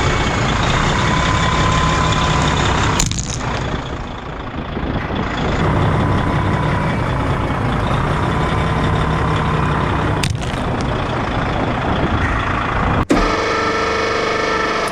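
A heavy truck's engine running steadily as the truck rolls. The sound changes abruptly about 3, 10 and 13 seconds in, where the footage cuts between shots.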